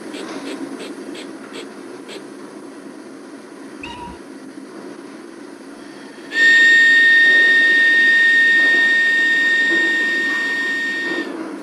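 Model steam locomotive's sound decoder: soft rhythmic chuffing over the low rumble of the running model, then a long steady steam whistle blast about six seconds in, lasting about five seconds before it stops.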